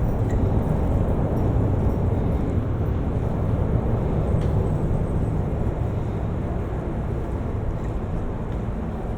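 Steady noise of motor traffic on a busy road bridge, heard from a bicycle, with a deep low rumble that eases slightly near the end.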